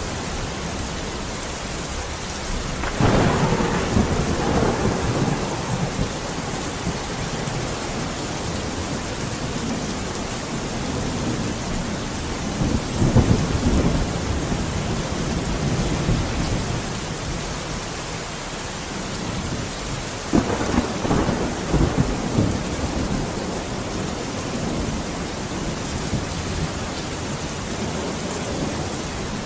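Steady heavy rain with thunder rumbling three times: a sharp-onset roll about three seconds in, another around thirteen seconds, and a third starting about twenty seconds in.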